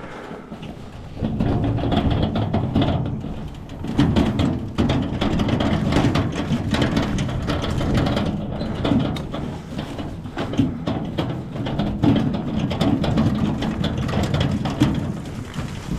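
Split firewood being handled and loaded, with many short wooden knocks as pieces strike one another, over a steady low rumble that sets in about a second in.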